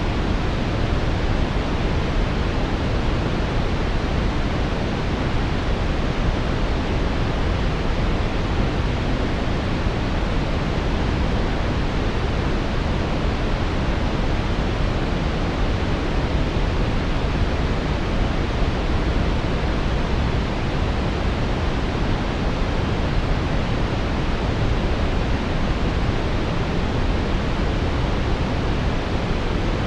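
Synthetic brown noise: a steady, deep hiss heaviest in the low end and rolling off toward the highs, with no changes or events.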